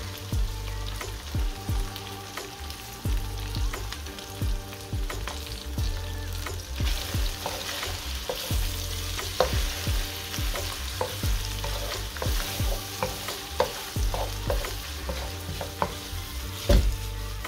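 Sliced green capsicum and onion frying in hot oil in a wok, sizzling while a wooden spoon stirs them with short knocks and scrapes against the pan. The sizzle grows stronger about seven seconds in.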